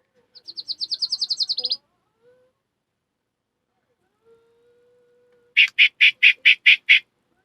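Two different bird calls: a fast, high trill of about a dozen quick down-slurred notes, then after a pause of a few seconds a series of seven harsh, scratchy notes at about five a second.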